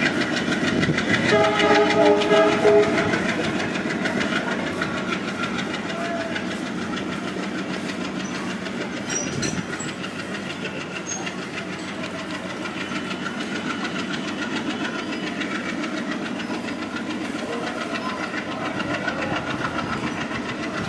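Indian Railways passenger train pulling away behind a WDM-3D diesel-electric locomotive, with coach wheels clattering over the rail joints. The locomotive horn sounds from about a second in for a couple of seconds, and then the rumble fades and settles as the train recedes.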